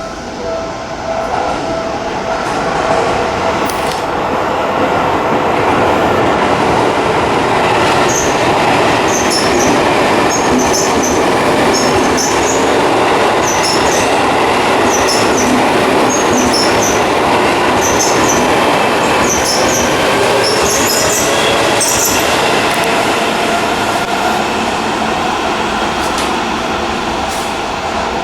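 Seibu Railway electric commuter train running through a station without stopping: a long, steady rumble of wheels on rail. Through the middle of the pass, short high squeals or clicks repeat about once a second.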